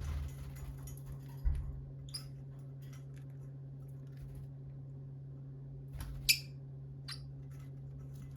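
Lovebirds giving a few short, sharp chirps, the loudest about six seconds in, over a steady low hum. There is a low thump about a second and a half in.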